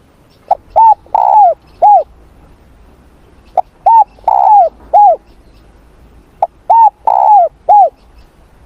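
Spotted dove cooing: three calls about three seconds apart, each a brief opening note followed by three coos, the middle coo longer and wavering.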